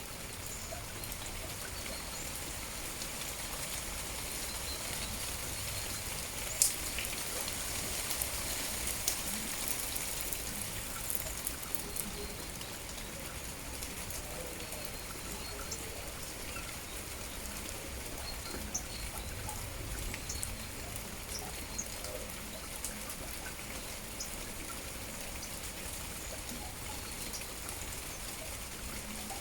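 Steady rain falling, with many small scattered drips and drop ticks and one sharper tick about a quarter of the way in.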